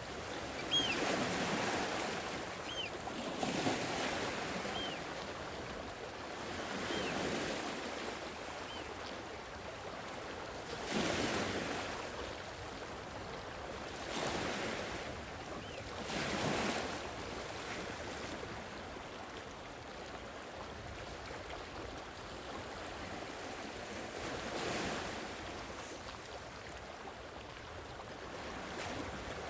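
Sea waves breaking and washing onto a shore, the surf swelling and falling every few seconds. Over the first ten seconds a faint short high chirp repeats about every two seconds and fades away.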